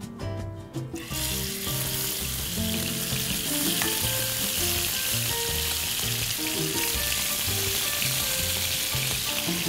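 Small marinated chicken pieces shallow-frying in hot olive oil in a non-stick pan, moved about with a spoon. A loud, steady sizzle starts suddenly about a second in as the chicken goes into the oil.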